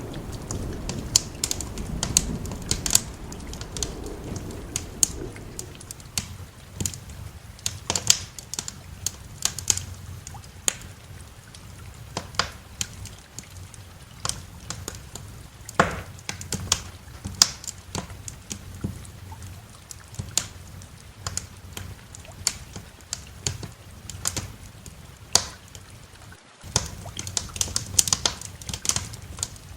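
Wood fire crackling, with irregular sharp pops and snaps over a low steady rumble. A deeper rumble of thunder fades away over the first few seconds. The sound cuts out for a split second about 26 seconds in.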